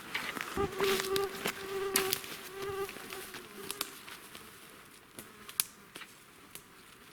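A flying insect buzzing close by for about three seconds, starting about half a second in, its pitch wavering slightly. It is heard over scattered sharp crackling clicks from footsteps in dry undergrowth.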